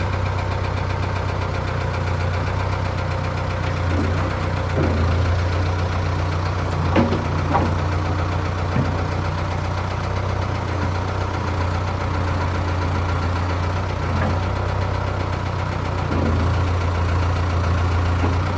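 Heavy diesel engine idling steadily, with a few light clanks and knocks scattered over it.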